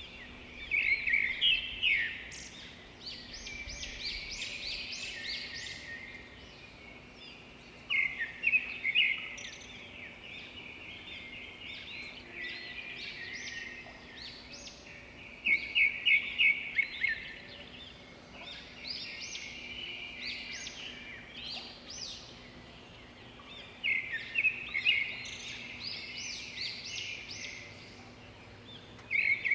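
Small birds chirping and calling continuously, with a loud burst of rapid chirps about every eight seconds.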